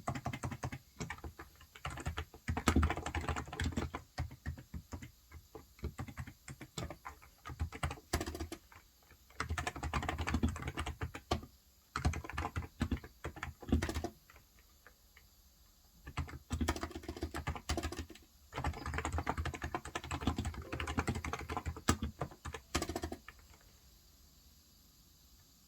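Typing on a Cox Endeavour electrostatic-capacitive tenkeyless keyboard with 35 g switches: runs of fast keystrokes broken by short pauses, with a longer pause near the end.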